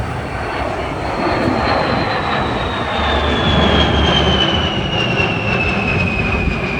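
B-52 bomber's eight jet engines passing overhead in a flyby: a loud, broad engine noise with a high whine that falls steadily in pitch as the aircraft goes by, loudest about halfway through.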